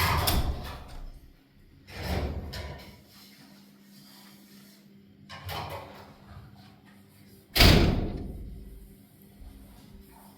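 Four sudden bangs at uneven gaps, each dying away over about a second; the last, near the end, is the loudest.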